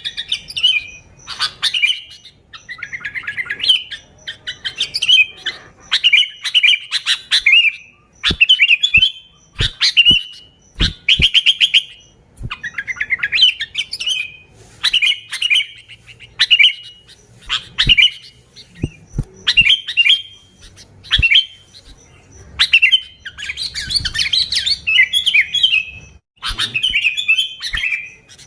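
Sooty-headed bulbul (kutilang) singing energetically: short, bubbly whistled phrases repeated about once a second. Occasional sharp clicks come between the phrases.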